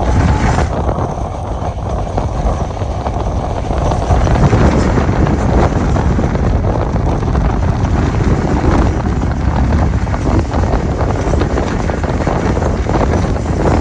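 Passenger train running at speed, heard from on board: a steady loud rumble with wind buffeting the microphone.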